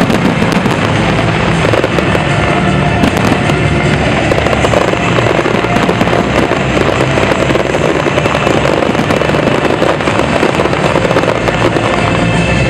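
Aerial fireworks display going off without pause: a dense, continuous crackle of many small bursts and pops.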